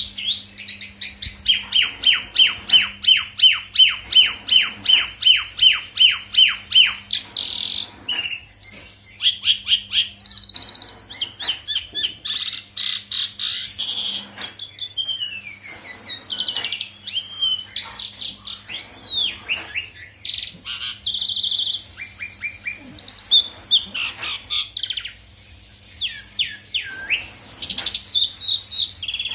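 Asian pied starling (jalak suren) singing at full volume: a run of quick, evenly repeated notes, about three a second, over the first several seconds, then a varied stream of whistles, rising and falling glides and chirps. The song is full of mimicked inserts of other birds' calls.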